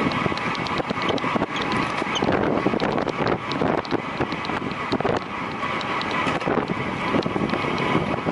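Wind rushing over the microphone of a camera carried by a rider at racing speed on a track bike, with many small clicks and rattles running through it.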